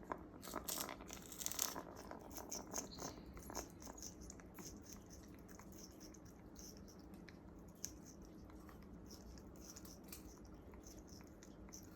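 African grey parrot biting and tearing at a piece of sugarcane: faint crunches and cracks, busiest over the first few seconds, then lighter scattered clicks.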